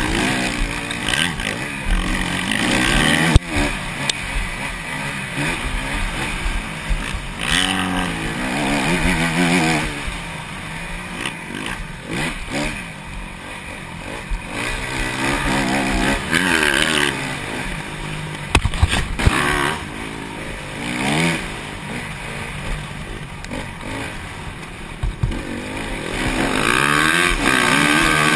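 250cc four-stroke single-cylinder motocross bikes racing, their engines revving up and dropping off again and again as the riders work the throttle through the track, more than one bike heard at once. A sharp knock comes about three seconds in.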